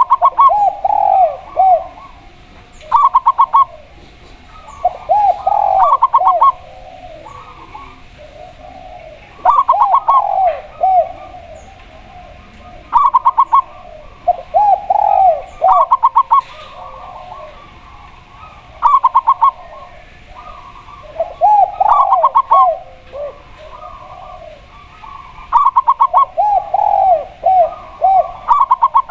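Spotted dove and zebra dove cooing together in repeated phrases a few seconds apart. Each phrase mixes a quick run of higher notes with lower, rolling arched coos.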